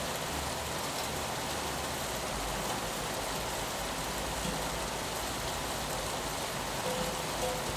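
Steady rain pattering on a window glass, an even hiss with no distinct drops standing out, over a faint low rumble.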